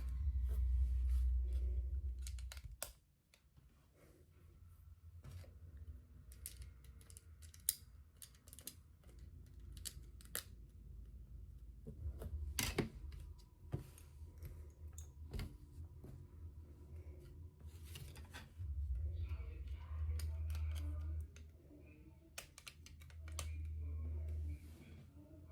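Plastic Lego bricks clicking and rattling as pieces are sorted and pressed together, in scattered sharp clicks, with stretches of low rumble from the pieces and table being handled.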